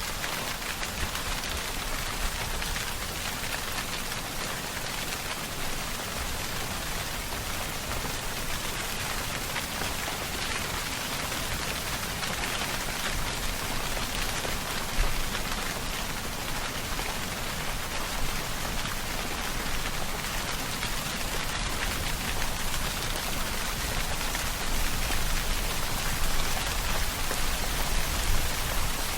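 Steady heavy rain falling, a dense even patter of drops on surfaces with a low rumble underneath that grows somewhat stronger near the end.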